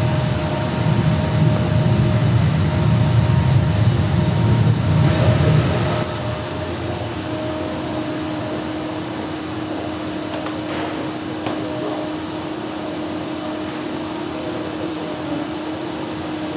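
Low, steady rumble of HO-scale model trains running on the layout. It cuts off suddenly about six seconds in, leaving a quieter steady hum with a few faint held tones.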